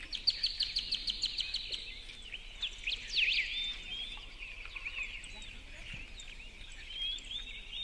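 Songbirds chirping and calling: a fast run of chirps over the first two seconds, louder calls about three seconds in, and scattered chirps after that.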